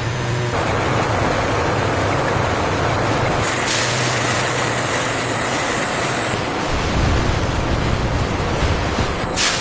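Industrial machinery running with a steady dense rumbling noise. About four seconds in, a hiss like escaping air comes in for a couple of seconds, and sharp clicks sound near the end.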